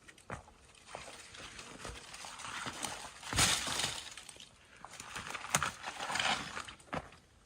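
Branches and twigs being handled, with rustling swells and sharp cracks of snapping wood; the loudest crack and rustle comes about halfway through.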